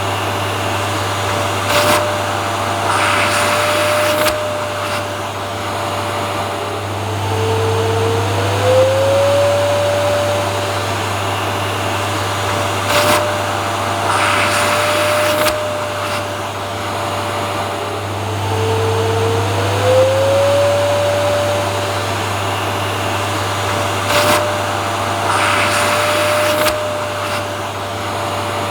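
Vacuum cleaner motor running steadily with a constant hum and whine. The whine twice drops in pitch and glides back up, and there are a few brief knocks. The same pattern repeats about every eleven seconds.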